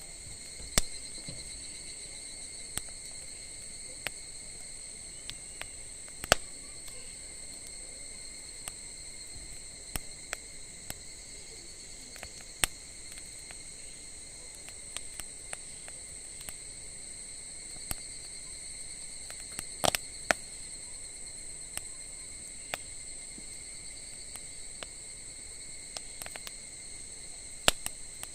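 Wood fire crackling, with irregular sharp pops, some much louder than the rest. Under it runs a steady high-pitched insect trill.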